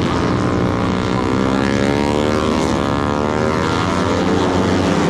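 Racing motorcycles running at high revs on the circuit, several engines overlapping, their pitches climbing and then falling away as they pass.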